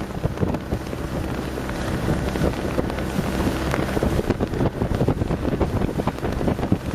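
Strong wind buffeting the microphone over water rushing and splashing along the hull of a sailboat sailing close-hauled.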